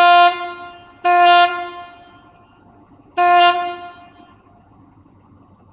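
Diesel locomotive horn of a FEVE 1600-series freight train sounding three short blasts on one steady note: the first at the start, the second about a second later and the third about two seconds after that, each dying away in an echoing tail.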